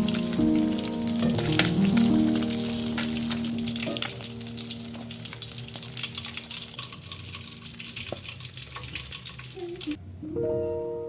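Food frying in oil in a pan, a dense sizzle with fine crackles, under soft background music; the sizzling cuts off suddenly near the end.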